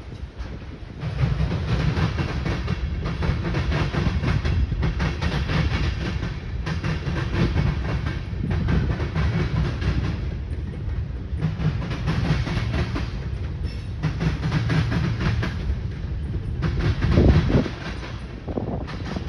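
Mixed freight train rolling past, its wheels clicking and rumbling over the rail joints in a steady rhythm that swells and eases as the cars go by.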